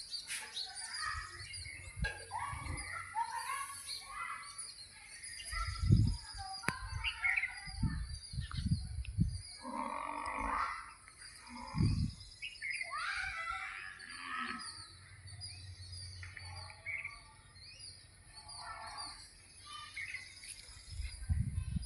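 Several birds chirping and calling in many short phrases over a steady high-pitched buzz, with occasional low rumbles.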